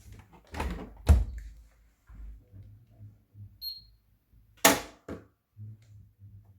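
A couple of thuds about a second in and one sharp knock near five seconds, with smaller knocks between, over a faint low hum.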